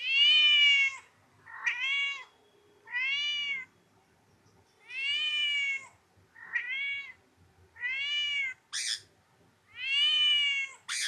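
Parrot imitating a cat: a series of about seven drawn-out meows, each rising then falling in pitch, with a short harsh screech about nine seconds in.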